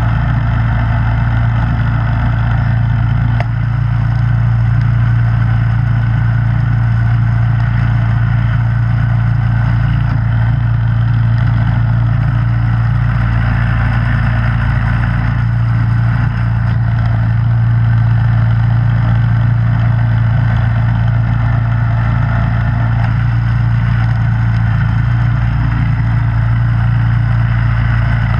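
Snowblower engine running steadily at a constant speed, an even, unbroken drone that holds the same pitch throughout.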